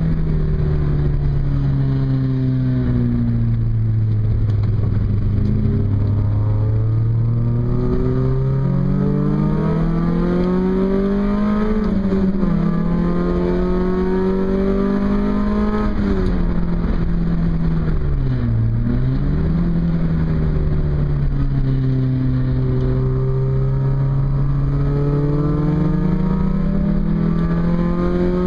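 Car engine under hard track driving, heard from inside the cabin: the engine note climbs slowly under load and falls back, with a few quick drops and recoveries a little under halfway through and again around two-thirds of the way through as the driver lifts or changes down.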